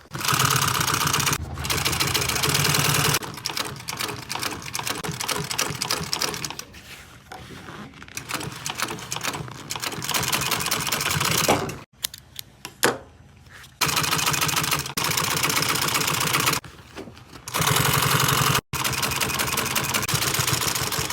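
Sewing machine stitching in several runs, stopping and starting with short pauses between them.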